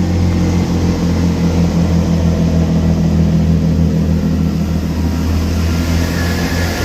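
Class 165 diesel multiple unit's underfloor diesel engines running with a steady, loud low drone at the platform as the train departs.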